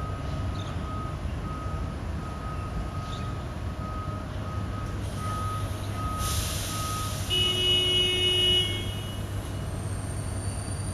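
Garbage truck reversing, its reversing alarm beeping about twice a second over a steady low hum, with the beeping stopping about seven seconds in. About six seconds in there is a burst of air hiss, then a louder high tone for about a second and a half.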